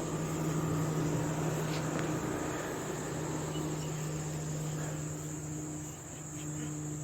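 Steady outdoor background: a high, even insect drone over a low steady hum.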